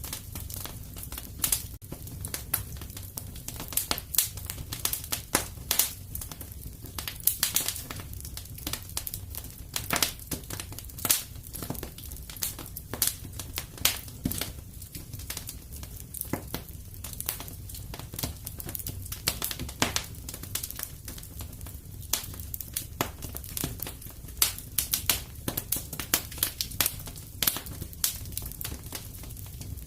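Wood fire crackling in a fireplace: a steady low rumble of flames with dense, irregular sharp pops and snaps, several a second.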